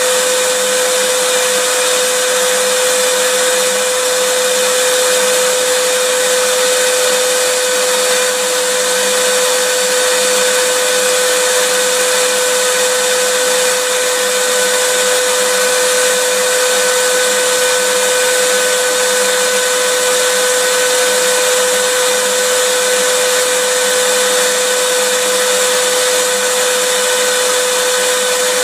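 Electric vacuum cleaner running steadily, a continuous loud rushing hiss with a steady mid-pitched whine from its motor.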